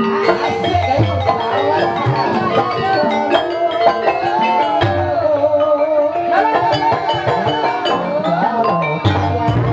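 Banyumas gamelan music playing for an ebeg dance: mallet-struck keyed instruments ringing out short notes over drum strokes, with a wavering, gliding melody line above them.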